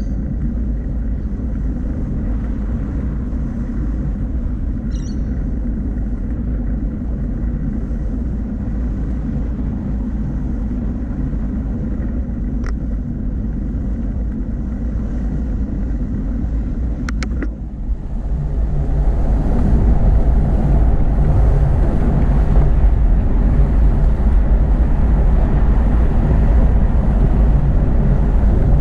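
Steady low rumble of wind and tyre noise picked up by a camera on a moving bicycle, with a few brief ticks. It grows louder and fuller about 18 seconds in and stays there.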